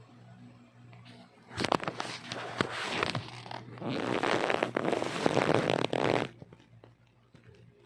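Rustling, crackling noise with many sharp clicks, like something being scratched, crumpled or scuffled, lasting about four and a half seconds from a second and a half in.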